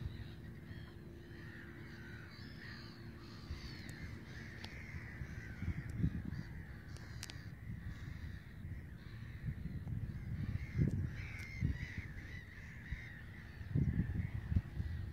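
Birds calling repeatedly, over irregular low rumbles of wind on the microphone.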